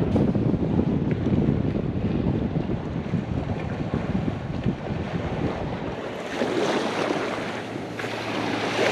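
Strong, gusty wind buffeting the microphone, with the wash of surf behind it; the wind noise grows a little hissier about six seconds in.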